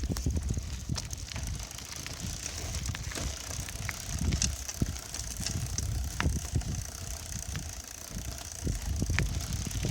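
A bicycle being ridden: a steady low rumble of riding noise, with scattered clicks and knocks as the bike rattles over bumps.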